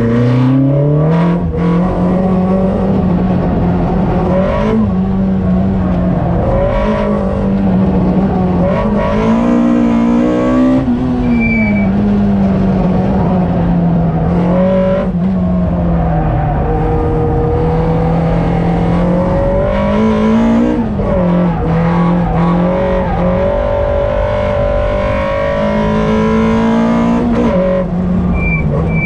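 Engine of a tuned 195 bhp Citroën Saxo VTS heard from inside the cabin at full track pace. The pitch climbs under hard acceleration and then drops sharply about six times with gear changes and braking, over loud road and tyre noise.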